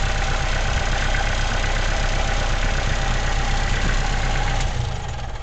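Tractor engine idling steadily, then winding down and stopping about five seconds in.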